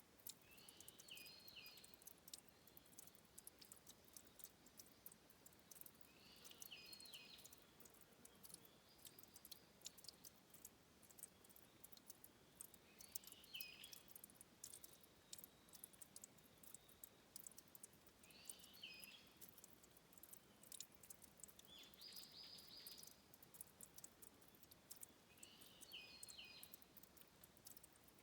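Faint dripping and trickling water at a stream's spring source, heard as a scatter of fine ticks, with a short high call repeating about every five to six seconds.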